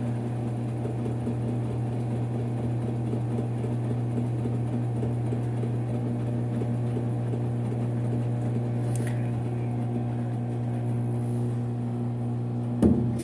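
Brastemp 5 kg washing machine running with a steady motor hum. A sharp knock comes near the end.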